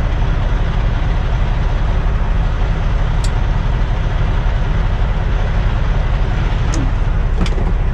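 Semi truck's diesel engine idling steadily while parked, with a few brief clicks.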